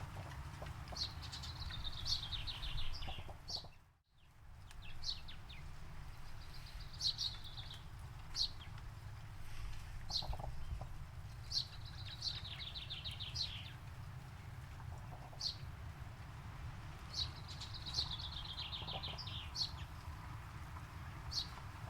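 Forest songbirds singing: a trilled phrase that slides downward, repeated every five seconds or so, with short high chirps between, over a steady low rumble. All sound drops out briefly about four seconds in.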